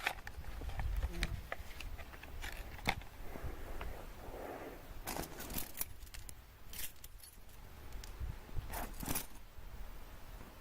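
Handling noise: scattered sharp clicks and light scrapes, with a short rustle about four seconds in.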